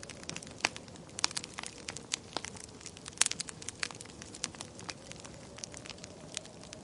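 Wood fire crackling: irregular sharp pops and snaps over a soft hiss, the loudest pop about three seconds in.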